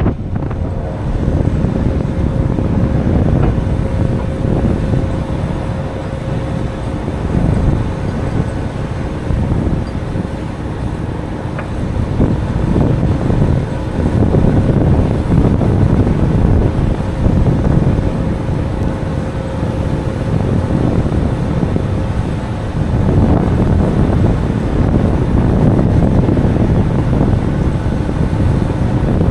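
Truck running with a steady low rumble, mixed with wind noise.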